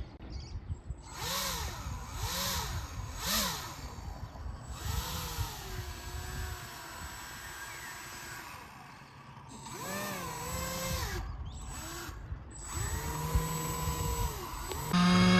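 Small electric motor of an RC boat whining up and fall back down in pitch as the throttle is blipped, again and again. Just before the end a louder steady hum sets in.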